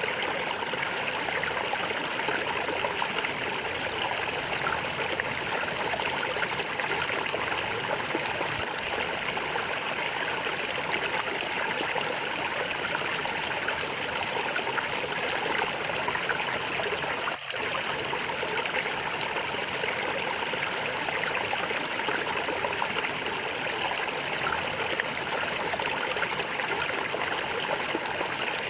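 Water flowing and gurgling steadily, like a small stream, with a momentary dropout about 17 seconds in.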